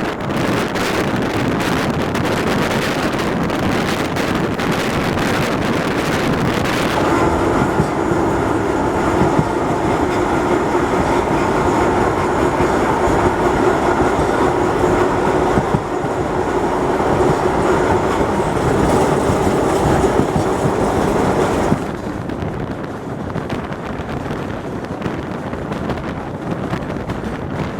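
Train running on rails with clattering wheels. A steady humming tone sets in about a quarter of the way through and cuts off sharply about three-quarters through.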